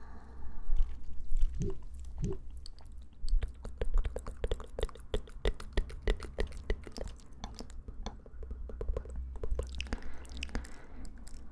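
Close-miked chewing of fresh fruit: rapid crisp, wet crunches and mouth clicks, several a second.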